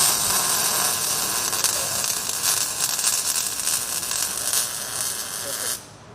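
MIG welding arc laying a bead on exhaust pipe: a loud, steady crackling hiss that starts abruptly and cuts off sharply just before the end.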